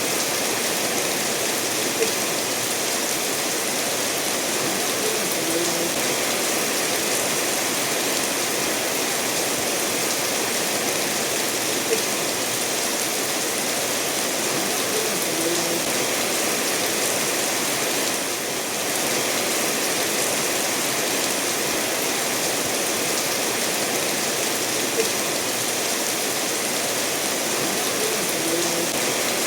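Steady rain falling together with a stream running over stones, an even wash of water noise with an occasional sharp tick of a single drop.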